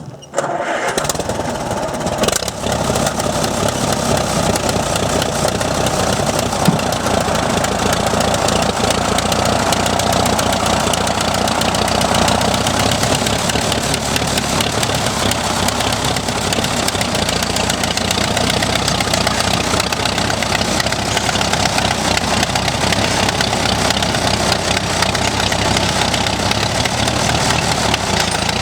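Tractor engine starting within the first second, then running steadily.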